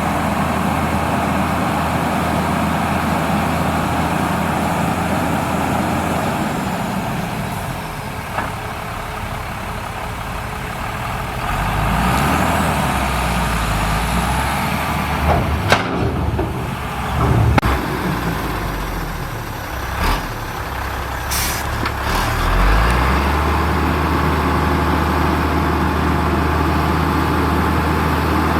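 Heavy diesel earthmoving machinery running steadily, its engine note dropping and then rising again under changing load. In the middle there are several sharp clanks and short air hisses.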